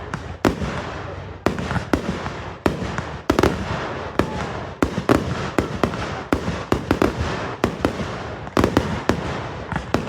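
Fireworks display: aerial shells bursting in quick succession, about two booms a second, some in close pairs, with echoing crackle between them.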